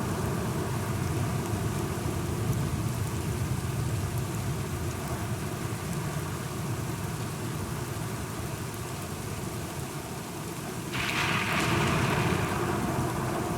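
Steady rain with a low, continuous rumble of thunder. About eleven seconds in, a sudden louder rush of hiss comes in and fades over a couple of seconds.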